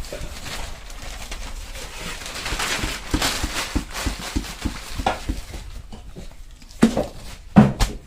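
Irregular light knocks, taps and scraping from hand work while packing firework components tight, with two louder knocks near the end.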